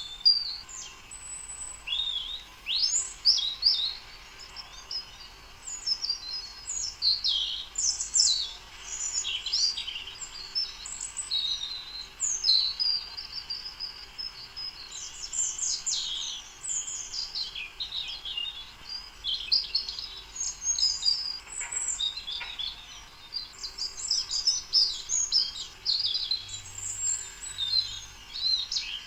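Songbirds chirping and singing, a dense stream of quick, high chirps and trills that overlap throughout.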